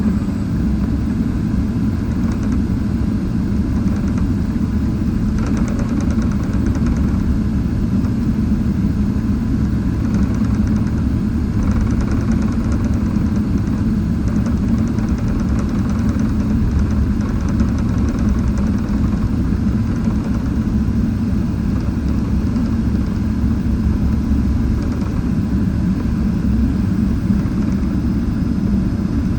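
Steady low rumble of a Boeing 777-300ER's GE90 turbofan engines running at idle thrust while the airliner taxis, holding at one level throughout.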